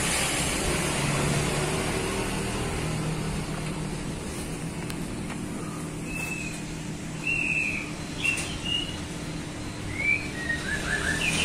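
Small birds chirping several times over a steady low hum, with a few faint clicks in between.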